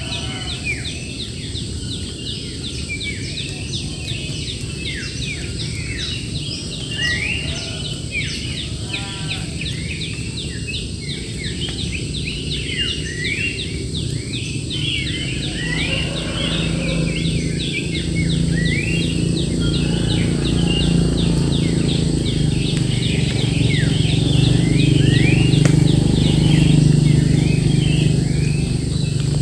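Many birds chirping in a dense, continuous chorus of quick repeated notes, over a steady high insect drone. A low rumble swells in from about halfway through and grows louder toward the end.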